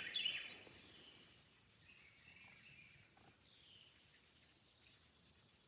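Faint bird calls: a few short chirps, several falling in pitch, spaced a second or more apart over a quiet outdoor background.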